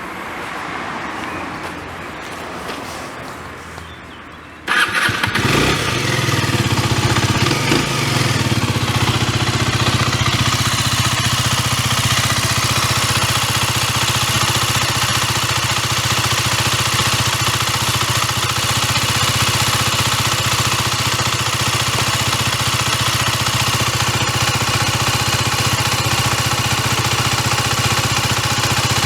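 Aprilia RS4 125's single-cylinder four-stroke engine, through its original exhaust, starting up about five seconds in and then idling steadily.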